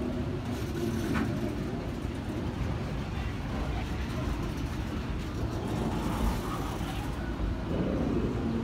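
Long freight train of flatcars carrying circus trailers rolling past: a steady low rumble of steel wheels on the rails.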